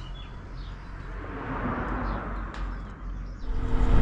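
Birds chirping over a swelling hiss. Near the end a low engine note with wind rumble comes up.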